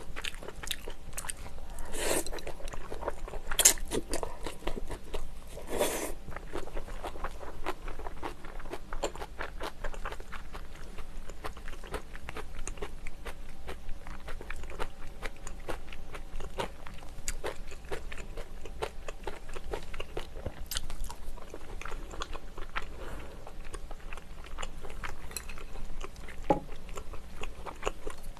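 Close-miked chewing of braised kimchi and tofu: wet crunching and mouth clicks, with a few louder bites in the first six seconds.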